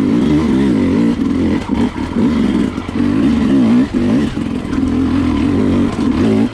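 Enduro dirt bike engine heard from on board, revving up and down as the throttle is worked, with a few brief dips where the throttle is shut off.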